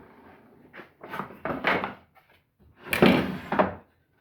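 A wooden jig being handled while setting up a table saw: a few short wooden knocks and scrapes.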